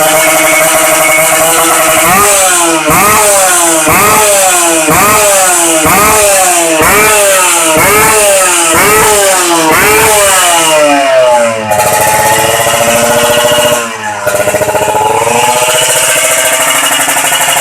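Kawasaki Ninja 150R two-stroke engine through a bamboo-style racing exhaust, revved in quick throttle blips about once a second, some ten times. It then settles back to a steady idle, with a brief dip shortly before the end.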